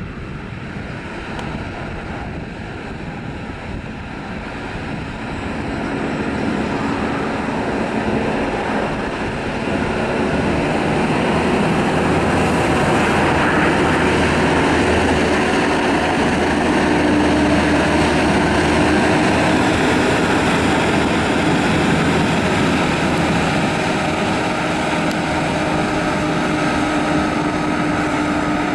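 Aircraft engine noise growing louder over the first ten seconds or so, then holding steady, with a few steady tones coming through near the end.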